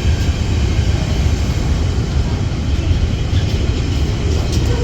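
Steady low rumble of a train in motion.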